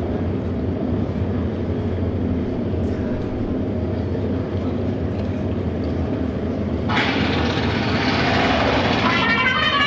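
Steady low rumble of motorcycle engines at the auto race track. About seven seconds in, a loud rushing noise comes in, and near the end a brass fanfare begins.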